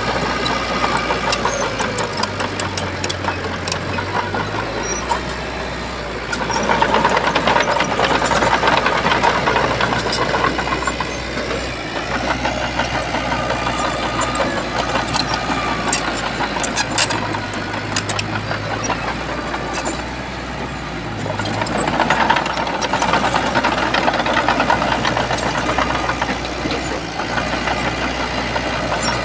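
Shantui bulldozer's diesel engine running steadily, getting louder in two long swells, about seven seconds in and again about twenty-two seconds in, as it works under load pushing sand.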